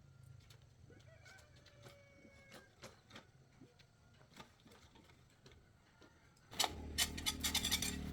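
Faint, scattered clicks and taps of small metal parts being handled. About six and a half seconds in, a much louder mechanical whirring with rapid clicking starts up abruptly.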